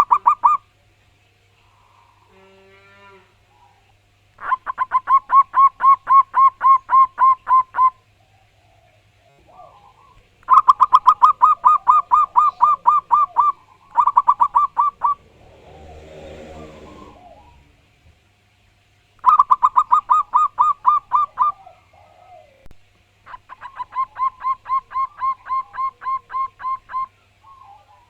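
Zebra dove (perkutut) singing loudly: fast runs of short, clipped notes, about four or five a second, in several bouts of up to about four seconds with short pauses between them.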